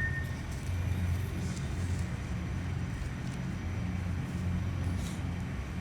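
Steady low rumbling background hum, with no speech over it.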